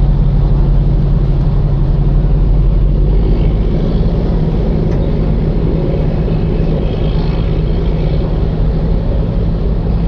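Passenger ferry's engine running with a steady low hum, under a broad wash of water and wind noise; the deepest part of the hum eases slightly about four seconds in.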